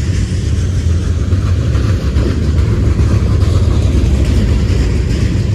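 Slow-moving CSX freight train's cars rolling past, a steady low rumble of wheels on rail, with heavy rain hissing over it.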